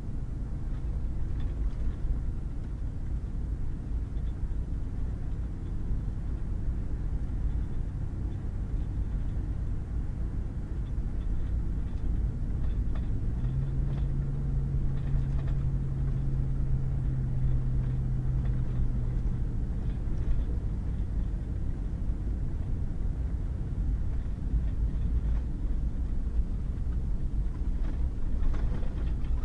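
Pickup truck driving on a wet, muddy gravel road: a steady low rumble of engine and tyres. About halfway through, the engine note rises and holds for several seconds before settling back.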